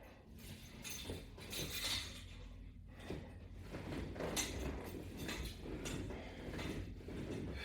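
Faint sounds of a man doing sit-ups on a strap-and-band ab rig: breathing and sliding, rubbing noises coming at an uneven pace, about one a second.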